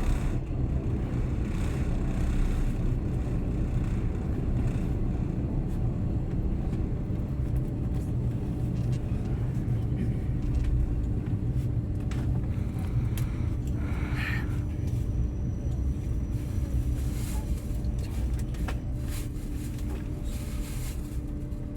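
Passenger train running along the track, heard as a steady low rumble of the moving carriage with a faint constant hum. A brief higher sound comes about two-thirds of the way through.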